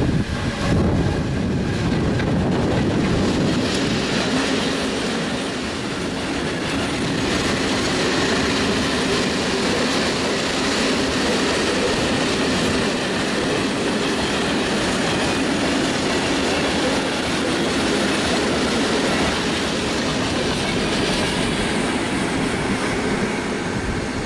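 A Siemens Vectron electric locomotive and a long train of hopper wagons passing close by: a steady rush of wheel noise with clickety-clack over the rail joints, easing off near the end as the last wagons go by.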